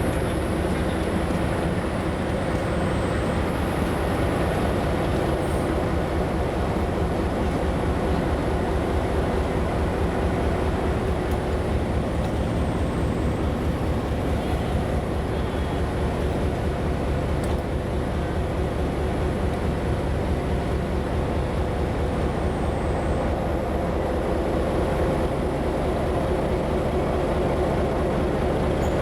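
A train's engine running steadily, a low even throb under a constant hum. A high whine above it dips in pitch about every ten seconds.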